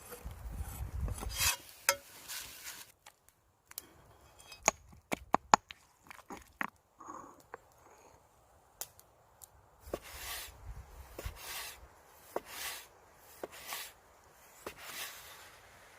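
Food-preparation handling sounds: rubbing and scraping near the start and again in the second half, with a run of sharp clicks and taps in between.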